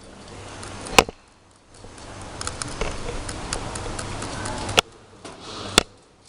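Hands working the small terminal nuts and wires of a muffle furnace's temperature probe: sharp clicks about a second in and twice near the end, with lighter ticks and handling noise between.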